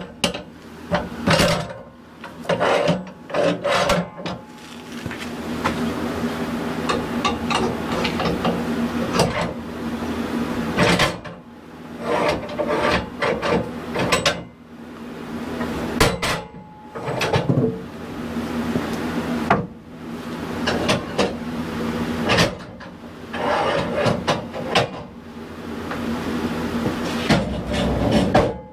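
Freshly sawn wooden boards being handled: repeated knocks, clunks and scraping of wood on wood, over a steady low engine hum.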